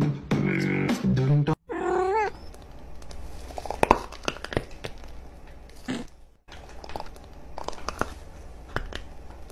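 Music with a beat cuts off, and about two seconds in a cat gives one short, wavering meow. After it come scattered light clicks and taps at a lower level.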